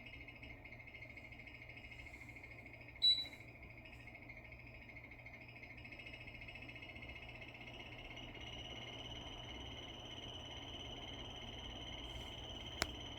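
Air conditioner running with a steady high-pitched whine that shifts up in pitch a little over halfway through, over a low hum. It is an abnormal noise whose cause the owner cannot find. There is a short loud beep about three seconds in and a sharp click near the end.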